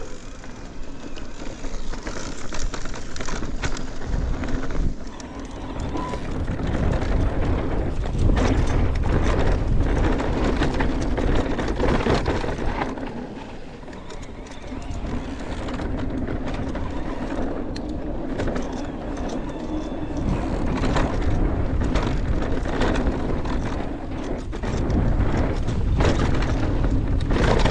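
Mountain bike descending a rough, rocky dirt trail: tyres rumbling over rocks and ruts, with frequent rattling knocks from the bike.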